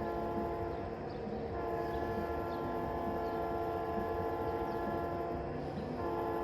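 Train horn sounding in blasts over the steady rumble of a running train: a brief blast at the start, a long blast from about a second and a half in until near the end, and another starting just before the end.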